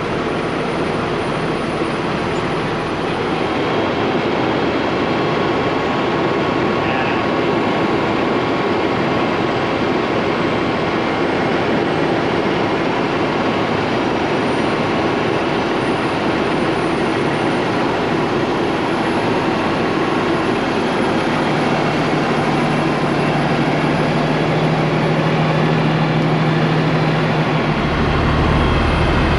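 Heavy diesel engine running steadily under a crane lift, its note stepping up about three-quarters of the way through and again, louder, near the end.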